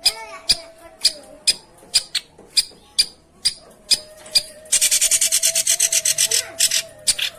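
Long-tailed shrike giving harsh calls: sharp ticks about twice a second, and a rapid, rasping chatter of about two seconds past the middle.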